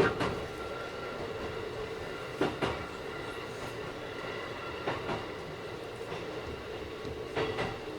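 Keikyu 1000 series electric train running at steady speed, its Mitsubishi IGBT inverter and traction motors giving a steady whine over the rolling noise. Pairs of wheel clicks over rail joints come about every two and a half seconds. The unit runs a little noisier than other 1000 series sets.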